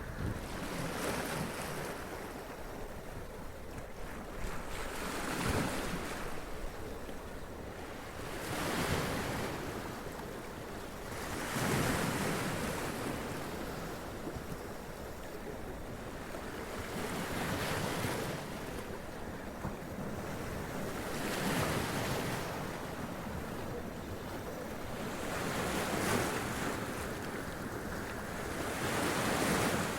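Sea waves washing up onto rocks, each wave surging and splashing over a steady wash of surf, about every three to four seconds.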